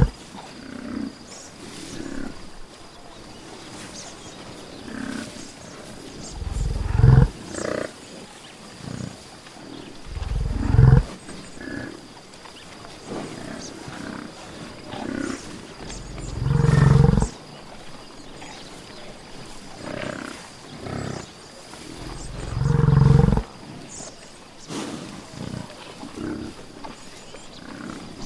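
Buffalo bellowing: four loud, deep calls about a second long, a few seconds apart, with shorter, softer calls between them.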